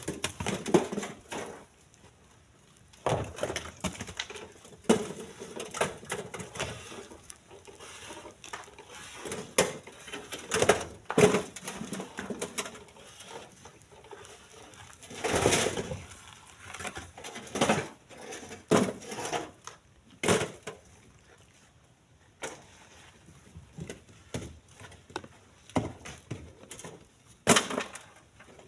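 Split stones being tossed and dropped by hand into a truck bed, giving irregular clunks and knocks of stone on stone and on the bed, with a few quieter gaps between them.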